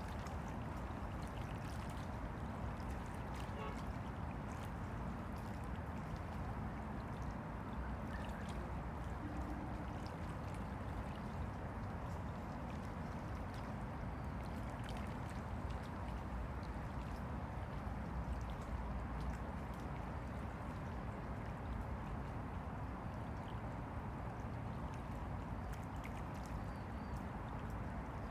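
Small river waves lapping steadily against the bank, with faint scattered splashes and ticks over a low, even wash.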